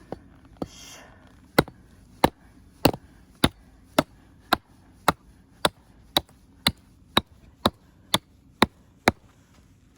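A camping axe chopping into a log of firewood with about fifteen quick, evenly spaced strikes, about two a second, as the wood is split by many small blows.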